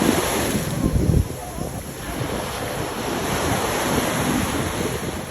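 Ocean surf breaking and washing on the beach, with wind buffeting the microphone in heavy low gusts during the first second or so.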